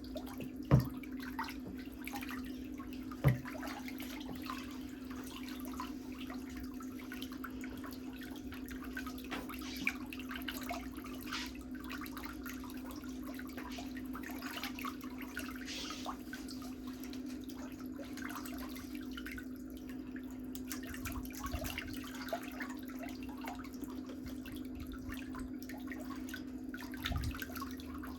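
Faint scratching and clicking of pedicure tools working on toenails over a steady low hum, with a couple of sharp knocks in the first few seconds.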